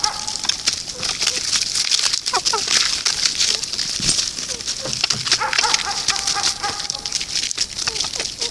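A busy chorus of chirping birds, with a few longer drawn-out calls about five to seven seconds in.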